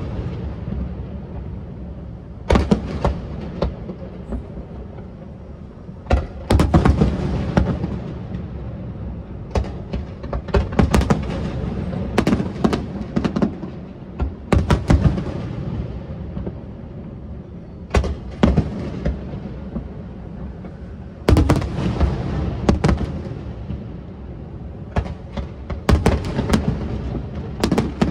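Aerial firework shells bursting in a display, a string of sharp bangs in irregular clusters, each trailing off before the next volley.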